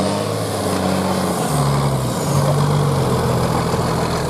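Competition trial truck's engine running under load off-road, its pitch rising and falling as the driver works the throttle.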